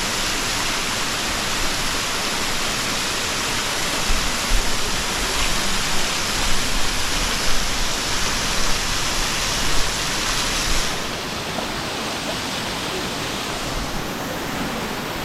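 River water rushing, a steady loud hiss; the sound dulls a little about eleven seconds in. Low bumps come and go in the middle.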